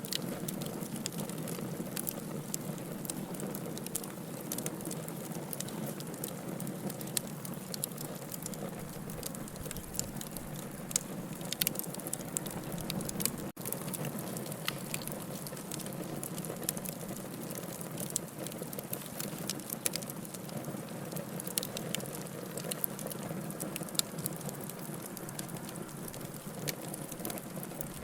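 Wood campfire burning, crackling steadily with frequent sharp, irregular pops.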